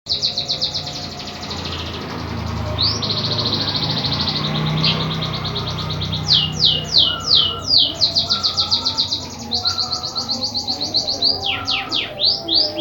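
A songbird, the kind sold in the bird-song hobby as emprit kaji, singing a long, high-pitched song of rapid trills. About six seconds in, and again near the end, it breaks into runs of quick downward-sweeping whistles.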